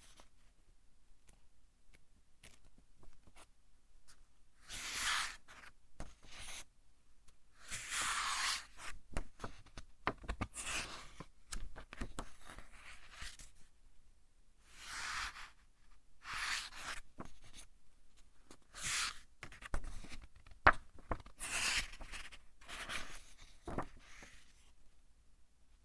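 Pages of a thick-papered book being turned one after another, each turn a brief papery swish and rustle, with small paper ticks and rubs in between.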